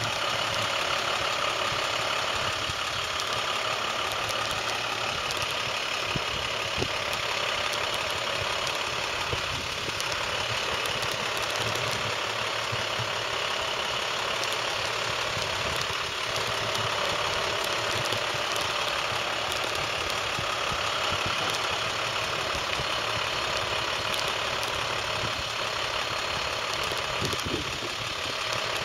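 International 4300 delivery truck's diesel engine idling steadily.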